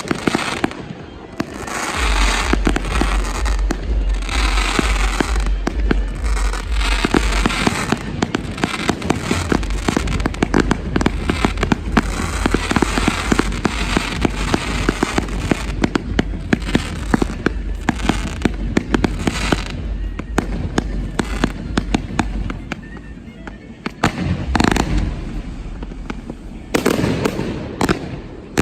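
Fireworks display: a dense, rapid crackle of bangs and pops that thins out near the end into a few separate larger bursts, with music and a steady bass line playing underneath for most of it.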